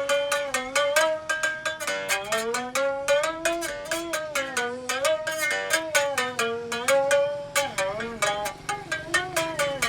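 Homemade berimbau played in a steady, fast rhythm: its single string is struck many times a second while its pitch slides up and down in a wavy melody.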